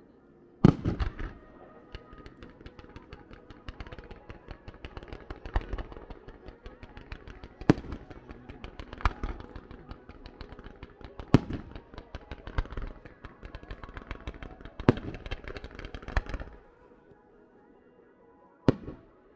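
Fireworks going off: a dense run of crackling punctuated by a loud bang every second or two. The crackle stops about three-quarters of the way through, and one more bang comes near the end.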